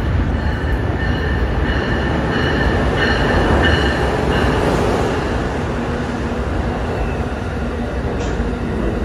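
Amtrak Acela trainset passing through the station at speed without stopping: a loud, steady rush of wheels on rails with a few thin high steady tones over it, loudest about three to four seconds in.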